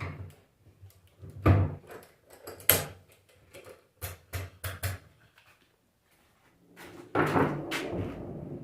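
Tools and alternator parts being handled on a workbench: scattered knocks and clicks, then a longer rough noise starting about seven seconds in.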